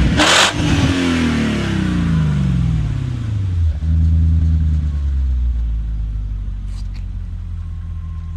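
BMW E34 540i's 4.0-litre V8 through Magnaflow catalytic converters and an Eisenmann rear exhaust, blipped: a short harsh rasp at the top of the rev right at the start. The revs then fall away over about three seconds and settle into a steady idle that slowly gets quieter.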